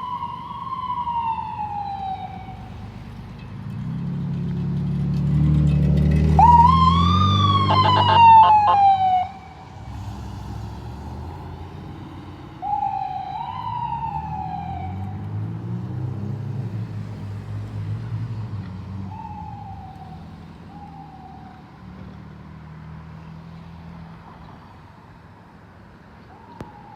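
Fire truck siren wailing up and down in repeated sweeps as the truck passes close, its engine rumble swelling loud for a few seconds about a third of the way in, then both fading away into the distance.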